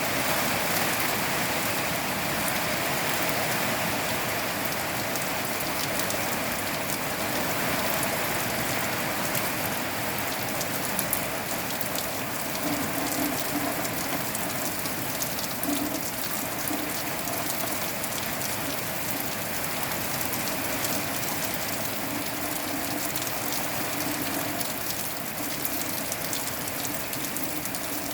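Steady rain falling, with many separate drops ticking sharply on a nearby surface over an even hiss.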